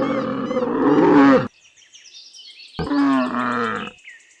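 Camel bellowing twice: two long, low calls, the first ending about a second and a half in and the second shorter, starting near three seconds. Small birds chirp in the background.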